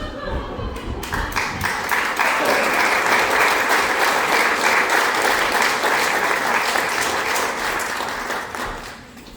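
Audience applauding, swelling about a second in, holding steady, then dying away near the end.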